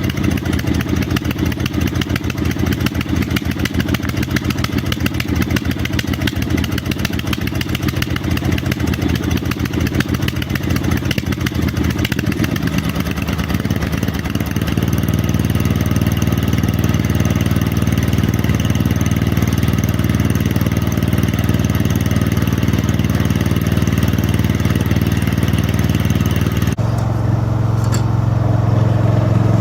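MTD snowblower's single-cylinder engine running after a cold start, firing unevenly at first, then settling into a louder, steadier run about halfway through. Near the end the sound changes abruptly, the hiss dropping away and a strong low note remaining.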